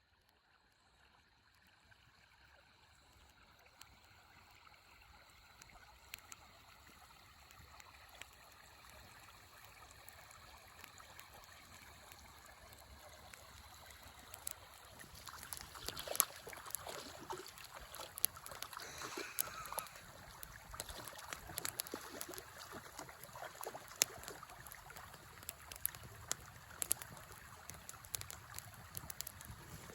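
A river flowing steadily, fading in over the first half, with a wood campfire crackling in sharp pops and snaps that come thicker and louder from about halfway.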